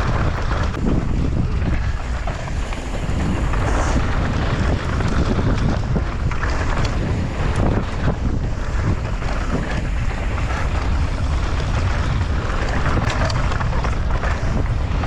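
Wind rushing over the camera microphone as a mountain bike descends at speed. The bike's tyres and frame rattle over rough ground with many short clicks and knocks.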